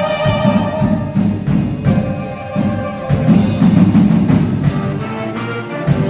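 High school wind band playing, with drums and percussion beating under held wind notes.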